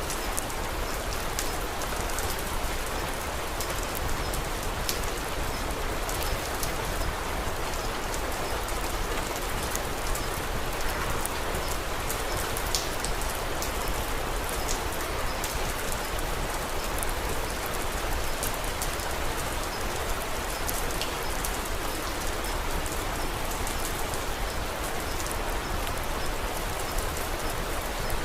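Steady rain falling, an even hiss with scattered sharp little ticks.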